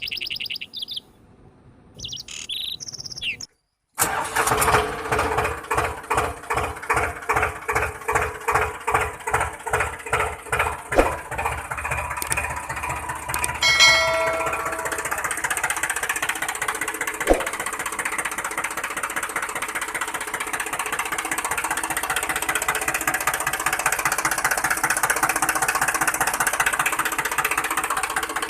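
Birds chirping, then after a short break a small engine starts up and labours in uneven surges about twice a second before settling into a steady run.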